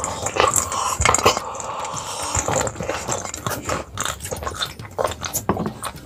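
Close-miked crunching and chewing of soybean sprouts, a dense run of crisp crackles.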